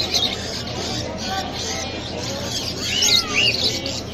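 Many caged birds chirping and calling over one another: short rising and falling chirps and squawky calls, thickest about three seconds in, over a low steady hum.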